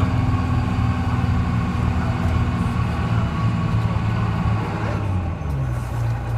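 The Detroit Diesel 6V71 two-stroke diesel of a 1970-71 GMC "New Look" transit bus running steadily under way. About five seconds in, the higher noise falls away and the engine note shifts.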